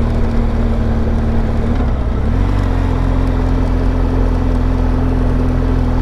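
BMW R1200GS boxer-twin engine running steadily while riding, with wind rush over it. About two seconds in, the engine note dips briefly, then settles at a slightly higher pitch.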